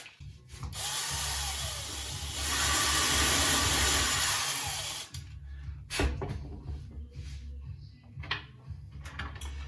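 Power drill running for about four seconds, louder in its second half, then stopping, followed by a few light clicks.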